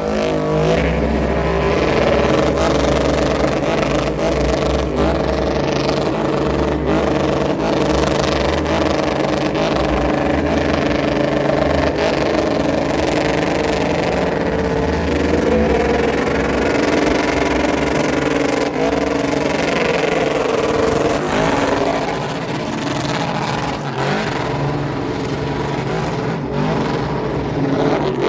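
Car engine held at high revs for a long stretch, its pitch swinging up and down around the middle, as in a car spinning for the show crowd.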